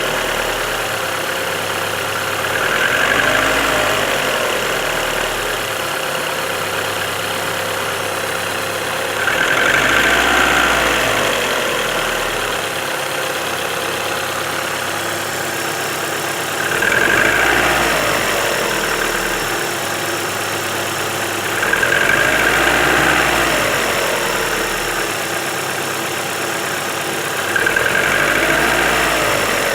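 Car engine idling, revved up briefly and let fall back five times, about every five to seven seconds, so that a knock can be heard.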